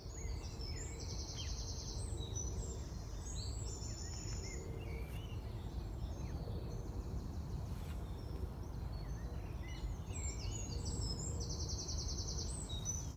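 Several birds singing and chirping, high-pitched, with a rapid trill about a second in and again near the end, over a steady low rumble.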